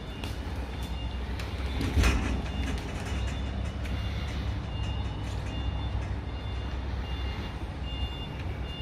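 Nissan UD MK38 truck's 4.7-litre engine running with a steady low rumble, with short high beeps repeating from about three seconds in and a single knock about two seconds in.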